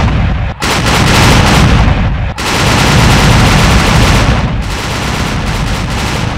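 Sailing-ship cannons firing a dense barrage, shot upon shot overlapping with no gap. It breaks off twice for an instant in the first two and a half seconds and grows a little quieter in the last two seconds.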